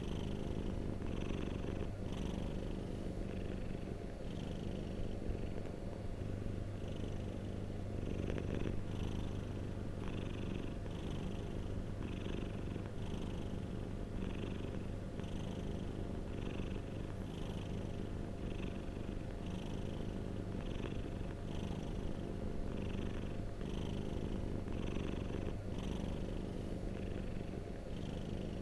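Domestic cat purring close to the microphone: a steady low rumble with a soft pulse recurring about once a second.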